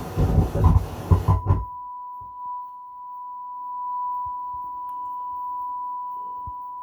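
Music and speech cut off about a second and a half in, giving way to a steady 1 kHz sine test tone, the kind used to bench-test a repaired Marantz 2250B stereo receiver.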